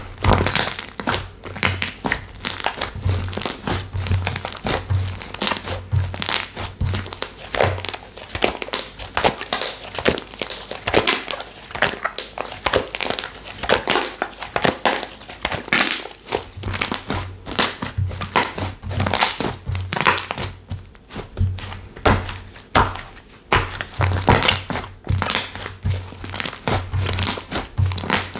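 Textured slime being squished, pressed and poked by hand, giving a constant run of crinkly, crackling clicks and pops with soft low thuds mixed in.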